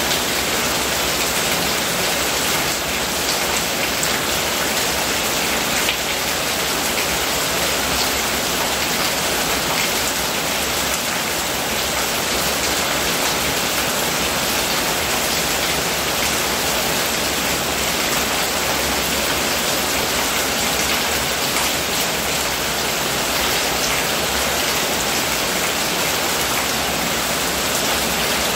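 Steady rain falling and pattering on hard surfaces, with a stream of runoff water pouring off the roof edge onto the ground. The hiss is even and unchanging throughout.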